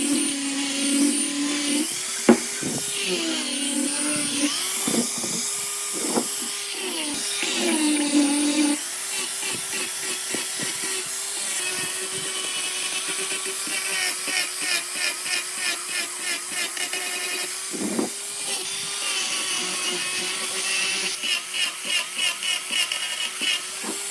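Electric power tool motor running steadily, its pitch dropping and recovering several times in the first half as it is pressed into the work, then holding at one pitch.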